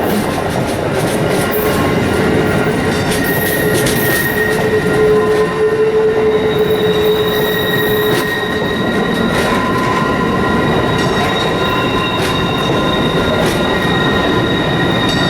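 Passenger train rolling through the station tracks with a steady rumble. Its wheels squeal on curved track in several high, held tones, loudest from about a quarter to half way through, with a few sharp clicks from wheels crossing rail joints or switches.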